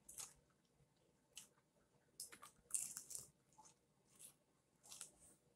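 Crispy fried chicken being chewed and pulled apart close to the microphone: soft, scattered crackly crunches, bunched together a little past the middle.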